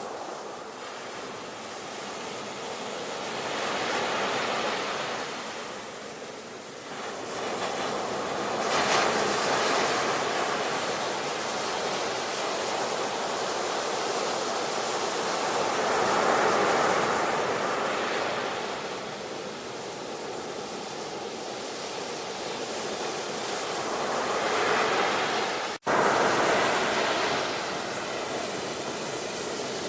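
Ocean surf: waves breaking and washing in, rising and falling in slow swells every several seconds. A split-second break cuts the sound a few seconds before the end, and the surf comes straight back loud.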